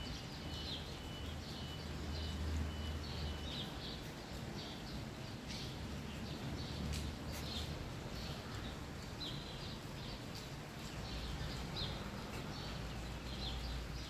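Small birds chirping: short high chirps repeated about two a second, over a steady low background hum.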